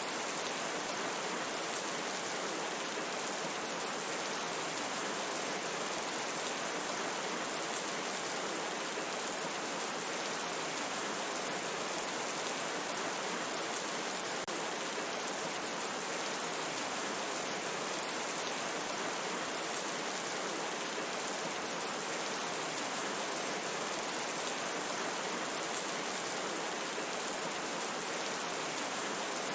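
Steady rain falling in a forest, a dense even hiss with no single drops or other events standing out.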